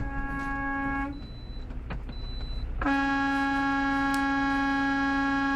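Truck horn held in long, steady blasts over a low engine rumble: one blast cuts off about a second in, and a second long blast starts about three seconds in.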